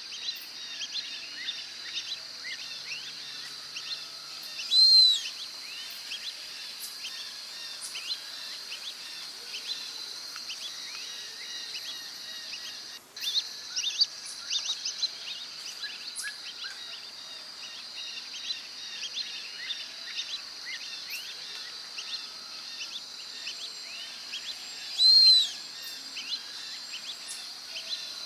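Brazilian teal calling: two loud, high, arching whistles, about five seconds in and again near the end. Beneath them runs a steady high insect drone, with many short chirps scattered throughout.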